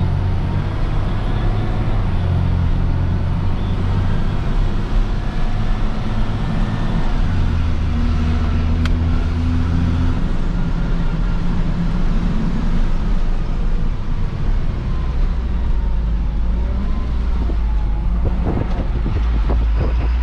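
Tow truck's engine running as the truck drives, its low note shifting up and down a few times. A few short knocks near the end.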